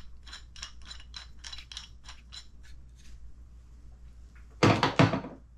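Hand tools on a workbench: a steady clicking at about three to four clicks a second fades out after about three seconds. Then, about four and a half seconds in, comes a short, loud clatter of metal parts or a tool being set down.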